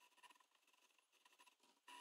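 Faint, stop-and-start whirring of a mini CNC plotter's small stepper motors moving the pen in short strokes, with a louder buzz near the end.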